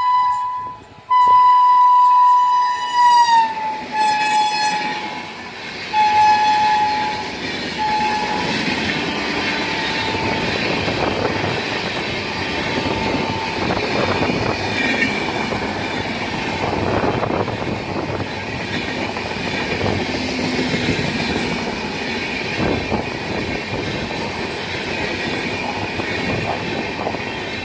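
Indian Railways express train passing close by. The locomotive horn sounds long blasts that drop in pitch as it goes by about three seconds in, then several shorter toots. The coaches follow with a steady rumble and clickety-clack of wheels over the rail joints, with some wheel squeal.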